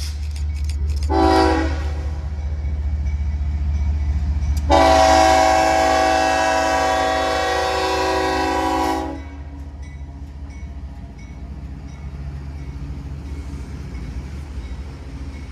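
Diesel locomotive air horn sounding a short blast about a second in, then a long, loud chord-like blast of about four seconds, over the steady low rumble of the passing train.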